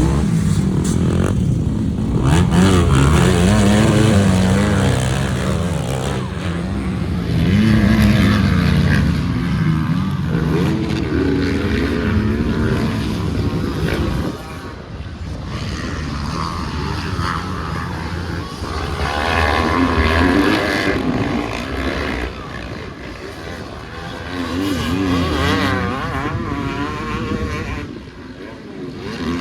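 Motocross dirt bike engine revving up and down repeatedly as it is ridden hard around the track, its pitch rising and falling with each swell.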